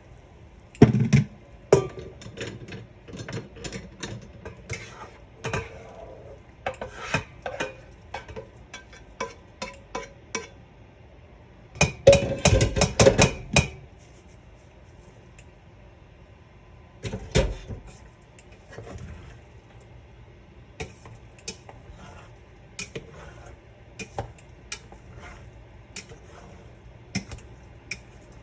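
Kitchen utensils and cookware clinking and knocking in scattered strokes, with a dense run of clatter about twelve seconds in and a single heavier knock a few seconds later.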